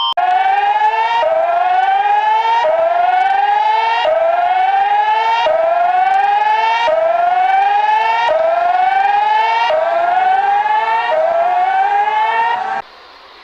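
Synthesized emergency-alert alarm tone: a siren-like wail that rises in pitch, drops back and rises again, about once every second and a half, nine times over. It cuts off sharply near the end.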